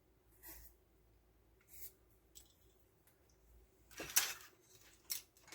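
A few faint clicks and rustles of wires and small parts being handled at a workbench, with the loudest cluster of sharp clicks about four seconds in.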